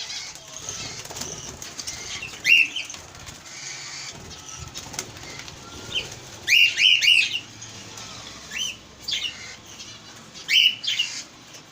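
Caged budgerigars and cockatiels calling: short rising chirps scattered through, with a quick cluster of several calls about six to seven seconds in and more near the end.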